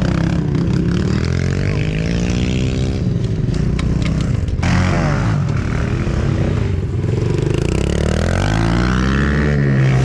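Dirt bike engines revving, their pitch rising and falling again and again as the throttle opens and closes, with a sudden change in the sound about halfway through.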